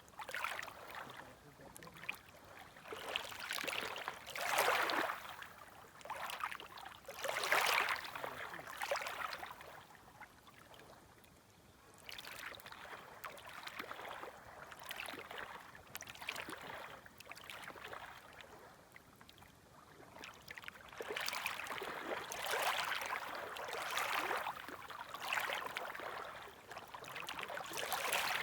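Small gentle waves washing in at the shore in irregular surges every second or two, with a quieter lull about a third of the way through.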